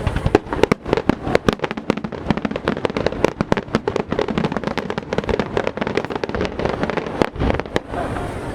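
Fireworks in a finale barrage: a dense, unbroken run of sharp bangs and crackles, many shells bursting every second.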